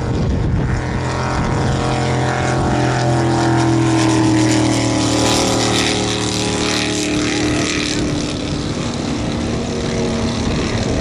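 Drag boat engine running at steady revs, its pitch easing down slightly in the second half, over a steady hiss.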